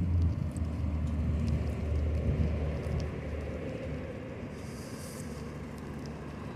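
A motor vehicle passing close by, its engine rumble fading away as it moves off, over low wind and road noise.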